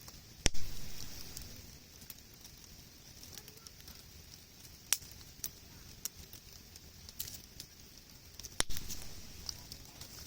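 Wood campfire burning, crackling with scattered sharp pops. The loudest pop comes about half a second in, with others near the middle and near the end.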